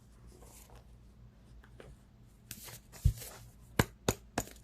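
Cards being handled and shuffled: soft rustling at first, then a few sharp taps and clicks in the last couple of seconds.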